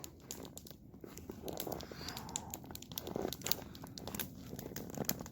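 Faint crinkling and rustling with scattered small clicks and light knocks, as of things being handled by hand.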